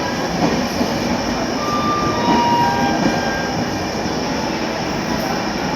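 Train running on the rails: a steady rumble with a few brief, thin squeals from the wheels about two to three seconds in.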